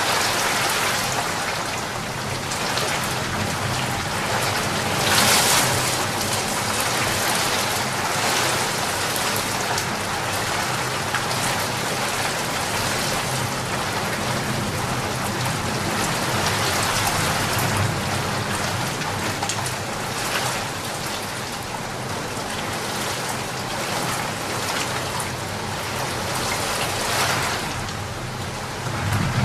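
Rain falling steadily, a dense even patter, with a brief louder swell about five seconds in.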